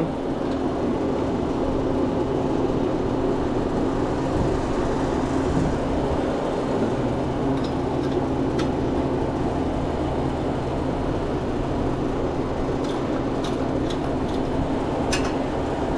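Steady drone of running refrigeration and kitchen machinery, a constant hum under fan-like noise, with a few light clicks in the second half.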